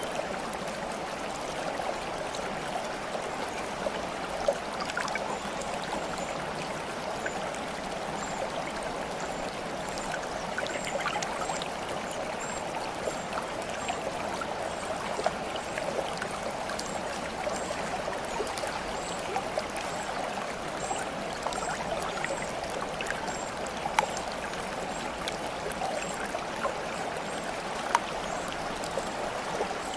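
Shallow water flowing and trickling steadily, with small splashes and drips; a few sharper plips stand out, four times.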